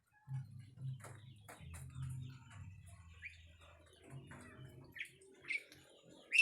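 A bird chirping in a few short, sharp calls in the second half, the loudest near the end, over a low uneven rumble and scattered clicks.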